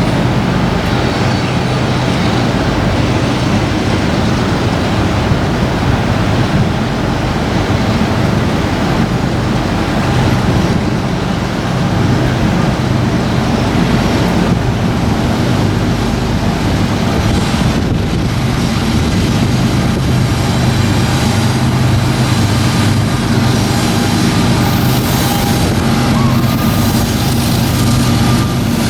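Diesel locomotives of a coal train passing close by: a steady engine drone over continuous rolling rail noise.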